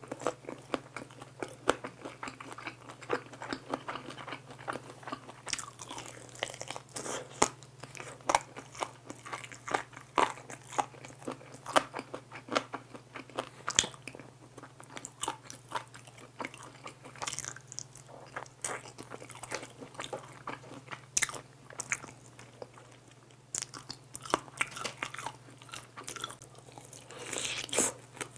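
Close-miked eating of soy-garlic glazed fried chicken: crisp crunching bites and chewing, with a fresh bite into a new piece near the end.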